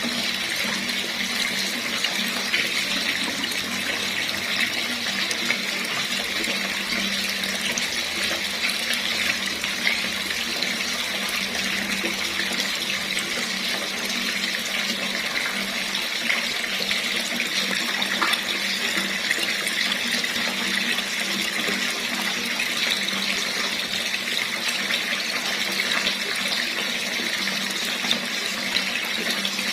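Water running steadily from a tap, an even splashing hiss that holds constant throughout.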